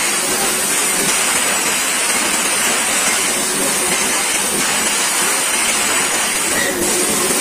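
Freight train wagons rolling directly overhead, heard from between the rails: a loud, steady rushing noise of steel wheels running on the rails.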